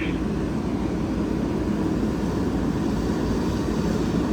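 Steady low rumble of a fire apparatus diesel engine running at the scene, even in level throughout.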